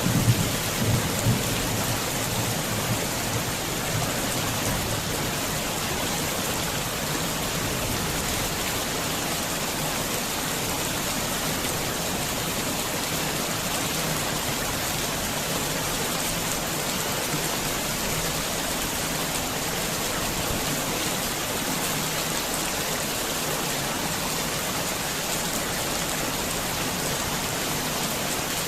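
Heavy rain falling steadily. A low rumble, like the tail of thunder, fades out in the first couple of seconds.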